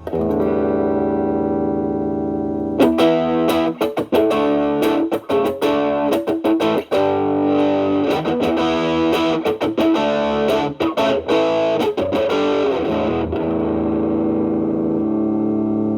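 Electric guitar (Fender Stratocaster) played through an Xotic BB Plus preamp with its Channel B gain at 3, into a Marshall Valvestate amp, giving a mildly overdriven tone. A held chord rings at the start, then a run of single picked notes, then another sustained chord near the end.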